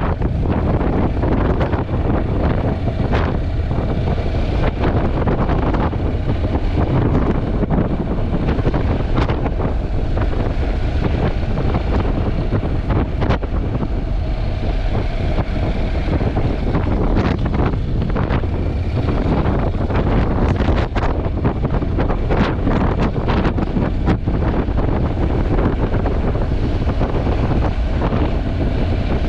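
Wind buffeting a GoPro 8 Black's built-in microphone on a moving motorcycle: a loud, steady low rumble broken by frequent short crackles.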